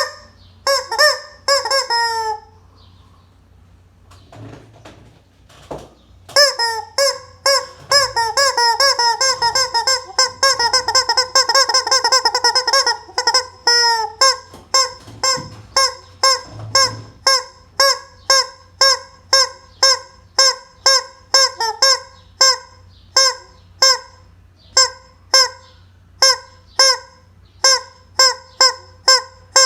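Chicken calling loudly over and over in short honking notes, one to two a second, with a few seconds' pause near the start and a fast run of calls from about six to fourteen seconds in.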